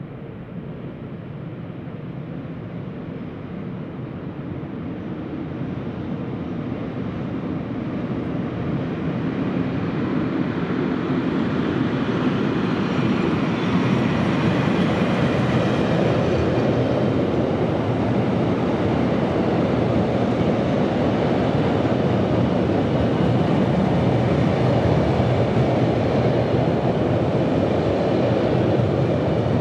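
A long passenger train, led by a diesel locomotive, approaching and passing on a viaduct: the locomotive and the rumble and rattle of wheels on the rails, growing steadily louder over the first half and then holding steady as the carriages go by.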